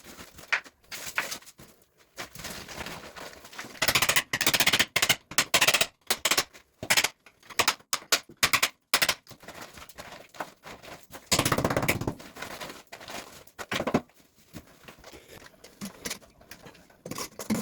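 Irregular knocking, clattering and scraping from hand work, with two longer rattling, scraping stretches about four and eleven seconds in.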